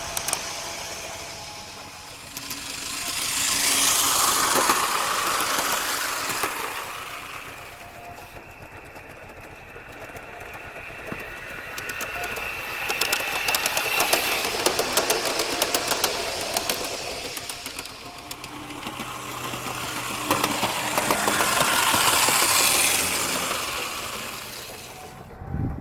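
Model trains on an outdoor model railway running past, three times swelling up and fading away, with the rapid clicking of small wheels over the rail joints and a rumble from the track.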